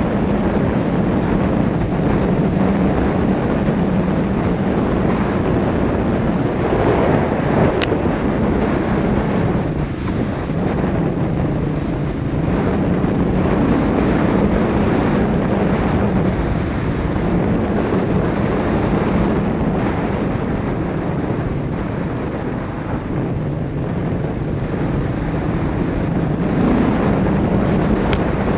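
A steady, wavering engine drone with heavy wind noise buffeting the microphone, as from a moving vehicle.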